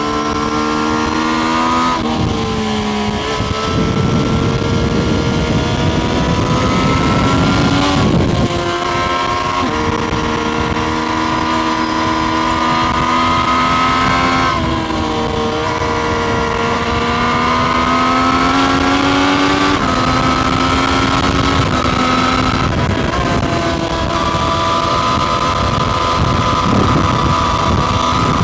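Triumph Street Triple RS's 765 cc three-cylinder engine running on the move, its note climbing slowly, then jumping to a new pitch as gears change, about every few seconds. Steady wind rush sits under the engine throughout.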